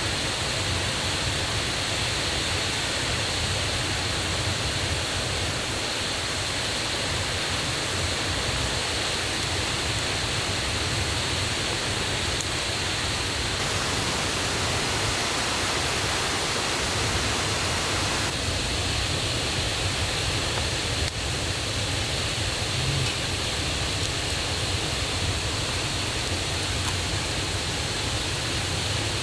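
Forest stream and waterfall running high after a day of rain: a loud, steady rush of water.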